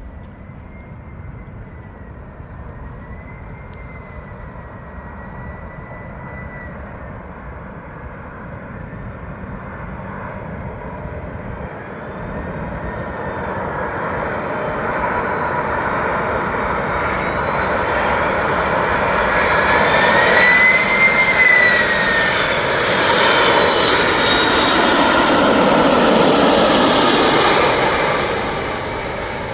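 Jet aircraft passing, its engines growing steadily louder with a high whine over about twenty seconds, then dropping away shortly before the end.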